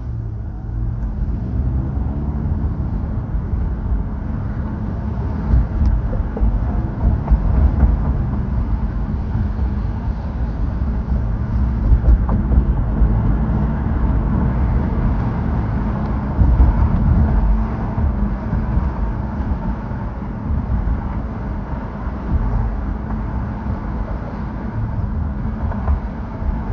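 Car driving: a steady low rumble of engine and tyre noise on the road.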